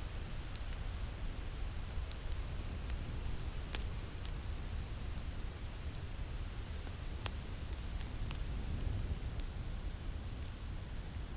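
Wind blowing steadily as a low rumble, with a fire crackling over it in scattered sharp pops.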